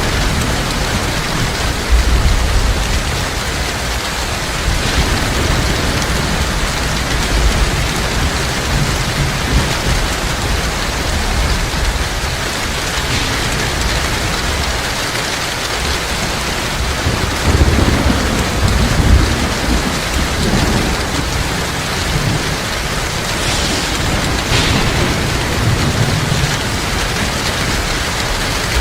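Heavy rain falling in a steady hiss, with low rolls of thunder rumbling under it several times, the strongest a little past halfway.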